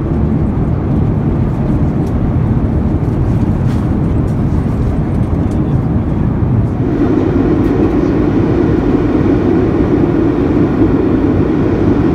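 Steady cabin noise of an Airbus A350-900 in flight: engine and airflow noise heard from an economy seat. About seven seconds in it shifts to a louder, brighter noise with a stronger low hum.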